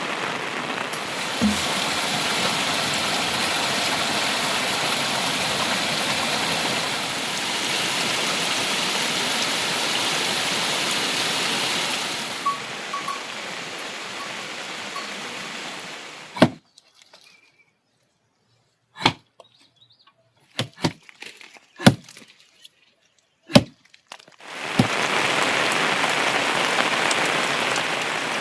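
Heavy rain falling in a steady hiss. Partway through, the rain gives way for several seconds to near silence broken by several sharp knocks, and then the rain returns.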